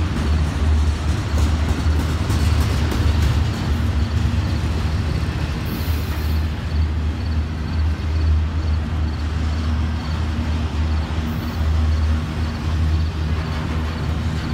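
Double-stack intermodal well cars of a freight train rolling past close by: a steady, loud rumble of steel wheels on the rails, heaviest in the low end.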